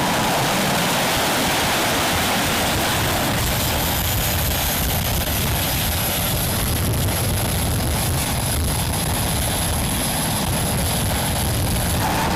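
Jet aircraft engines running, a steady rushing noise with a thin high-pitched whine through most of it.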